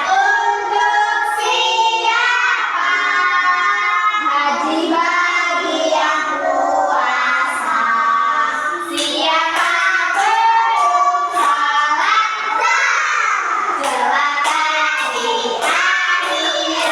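A group of young children singing a song together. About halfway through, sharp claps join in.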